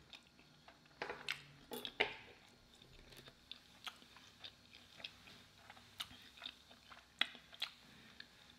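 A person chewing a mouthful of chicken pot pie lasagna close to the microphone: soft, wet mouth clicks and smacks, scattered irregularly and strongest about one to two seconds in.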